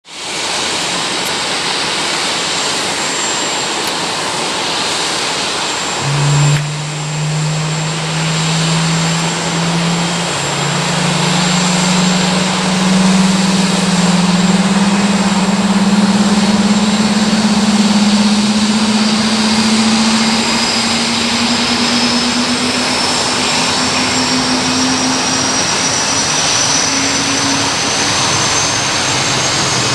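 Boeing 747-400F jet engine starting: a steady rushing hiss, then about six seconds in a low hum sets in suddenly and climbs slowly in pitch as the engine spools up. A thin, high whine joins in during the second half and rises with it.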